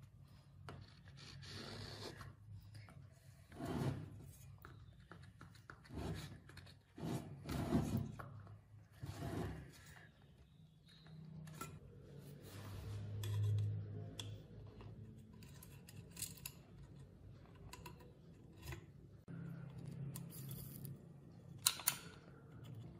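Hand-tool work on speaker parts: irregular scraping and rubbing strokes with scattered clicks, busiest in the first half, over a faint low hum.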